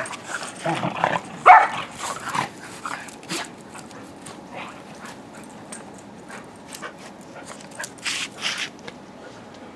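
Dogs playing, with a few short, loud barks in the first couple of seconds, then quieter scattered rustling and clicking.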